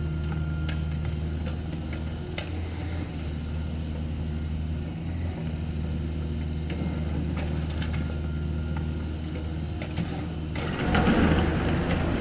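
Diesel engine of a CAT 305.5E2 mini excavator running steadily at work, with a few sharp clicks and knocks. A louder, rough rushing noise sets in near the end.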